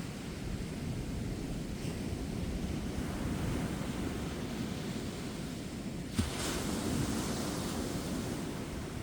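Ocean surf washing on a beach, a steady low rumble of waves with wind on the microphone. About six seconds in, a brief thump comes, then a louder hiss as a wave breaks and washes in.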